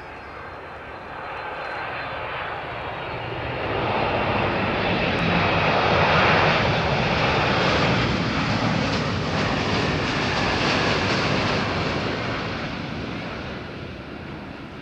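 Boeing 767-300 twin-engine jet airliner landing, its engine noise building as it approaches, at its loudest as it passes close by, then fading away.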